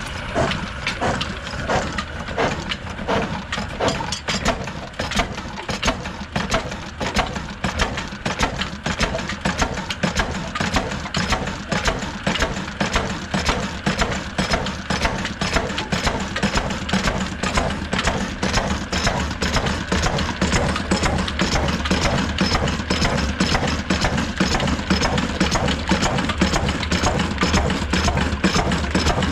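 Old black desi stationary diesel engine running with a steady, rhythmic firing beat, a little louder in the second half.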